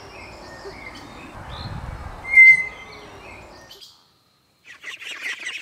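Tapir giving a short, high-pitched whistle about two and a half seconds in, over steady background noise. The sound cuts to silence about four seconds in, and a dense, high chirping chatter of many quick calls starts near the end.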